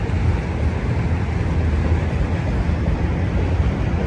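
Autorack freight train cars rolling past on the main track: a steady low rumble of wheels on rail.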